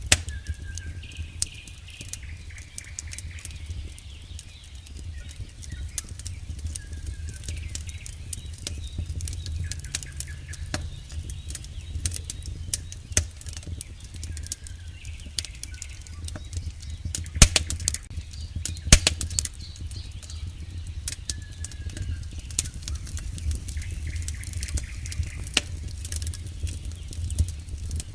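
Campfire burning with a steady low rumble and constant crackling, wood snapping in sharp pops, two of them louder about two-thirds of the way through.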